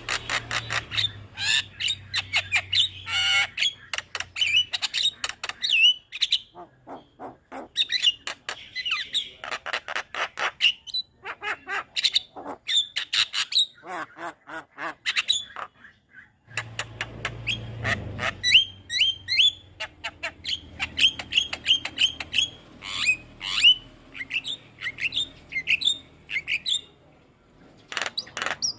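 Javan myna (jalak kebo) singing a loud chattering song: fast runs of sharp clicking and whistled notes mixed with harsh squawks, broken by a few short pauses.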